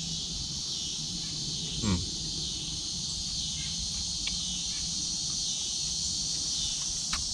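Steady high-pitched chorus of crickets and other insects, with one brief low sound falling in pitch about two seconds in and a few faint clicks.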